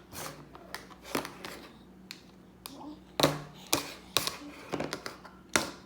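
A scattering of sharp taps and knocks, about ten of them, irregularly spaced; the loudest comes a little after three seconds in.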